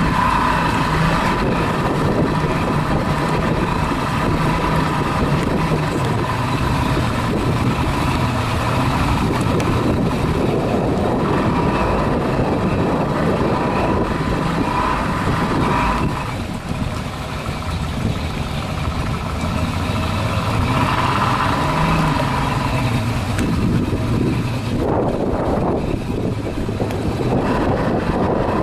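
Twin Mercury Racing 2.4-litre Optimax outboards running at low throttle, pushing the boat up onto the haul-out ways. The engines run steadily and ease off briefly a little past halfway.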